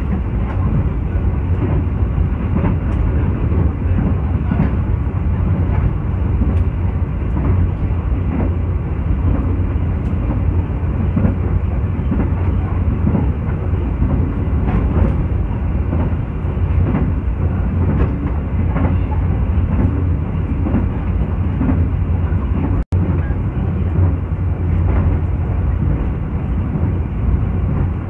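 Passenger train running at speed, heard from inside the carriage: a steady low rumble with faint wheel clicks over the rails. The sound drops out for an instant about three-quarters of the way through.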